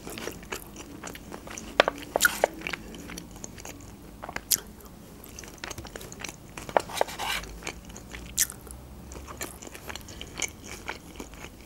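Close-up mouth sounds of a person chewing and biting into chicken Iskender doner with fries, with many short, sharp wet clicks scattered throughout.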